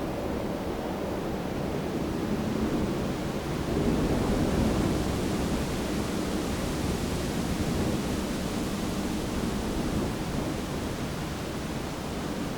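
Wind blowing through a bamboo grove: a steady rush that swells a little about four seconds in, then eases.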